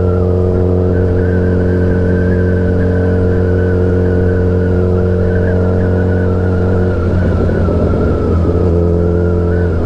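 Suzuki Hayabusa inline-four engine running through an aftermarket Brock's Performance exhaust, holding a steady note at cruising revs. About seven seconds in the even note breaks up and turns rougher, settles briefly, then roughens again near the end.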